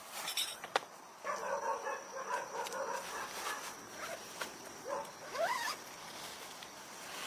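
A dog whining: a drawn-out pitched whine, then a few short rising whimpers.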